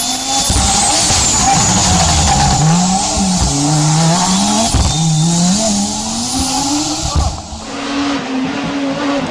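Rally car engine at full throttle, its pitch climbing and dropping back several times as it shifts up through the gears, over tyre and loose-surface noise, with a few heavy low thumps.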